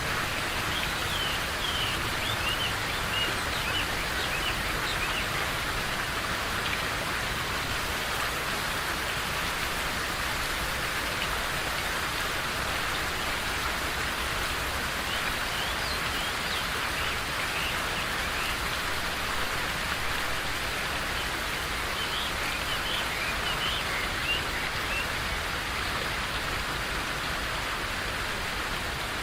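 Steady rain falling, with small birds giving short chirps in three brief spells.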